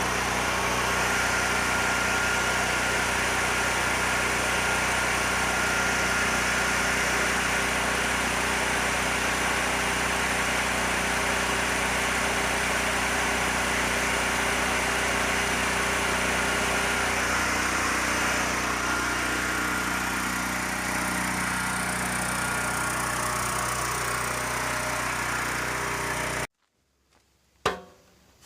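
Sportsman 9000-watt portable generator's gasoline engine running steadily at constant speed. It cuts off suddenly near the end, followed by a few faint clicks.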